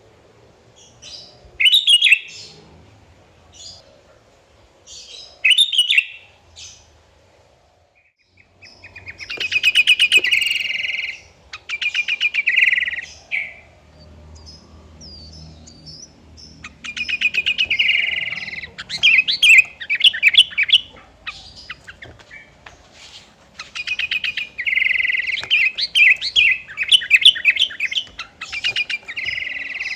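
Sooty-headed bulbul (kutilang) singing: two short calls near the start, then longer, rapid chattering phrases of quick repeated notes that come closer together and grow longer through the second half.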